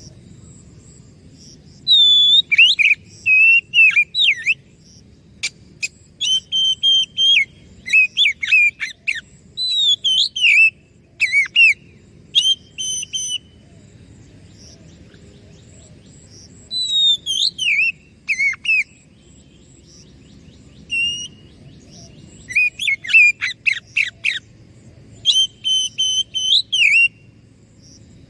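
Oriental magpie-robin (kacer) singing: loud bouts of varied whistled phrases and fast trills, several seconds each, separated by short pauses.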